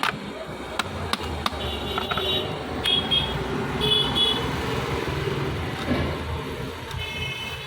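Road traffic going by with a low steady rumble and several short horn honks, a few about two to four seconds in and another near the end, with a few sharp clicks early on.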